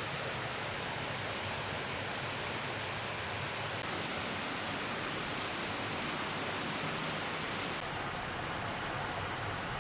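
A shallow valley stream flowing, a steady rushing hiss of water; its brightness drops slightly about eight seconds in.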